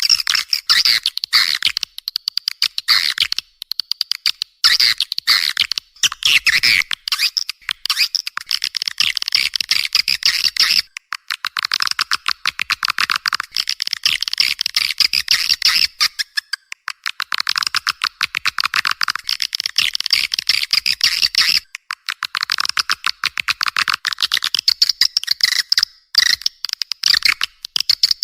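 Swiftlet calling track of the kind played to lure swiftlets into a nesting house: dense, rapid chattering trills and clicks with nothing in the low range, pausing briefly about 11, 17 and 22 seconds in.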